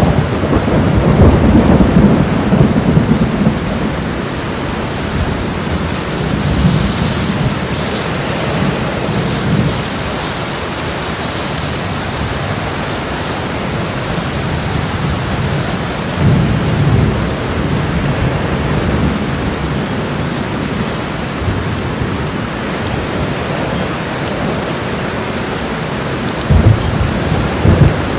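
Homemade thunderstorm sound effects: steady heavy rain hiss with rolling thunder rumbles. The biggest rumble comes in the first few seconds, others swell about a quarter and about three fifths of the way through, and a sharper clap sounds near the end.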